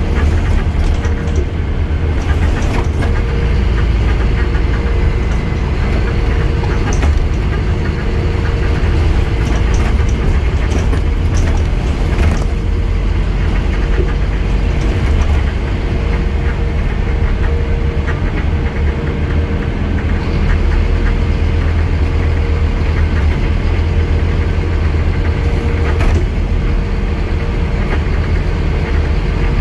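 Scania N230UD double-decker bus's five-cylinder diesel engine running steadily with a steady whine, and a couple of brief clicks or rattles about midway and near the end.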